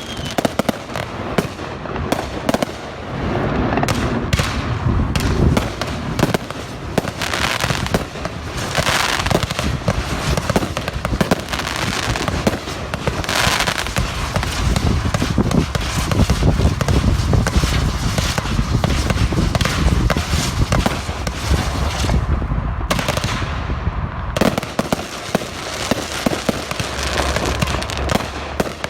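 Fireworks display going off in a continuous barrage: many bangs and crackling reports overlapping with no pause.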